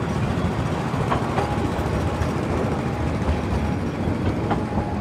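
Narrow-gauge train running along the track: a steady rumble of wheels on rails, with a few sharp clicks.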